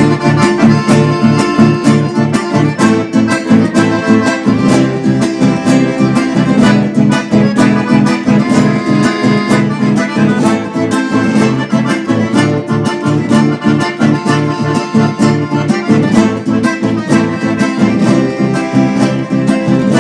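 Instrumental chamamé introduction: accordion leading over strummed guitar, with a steady dance rhythm.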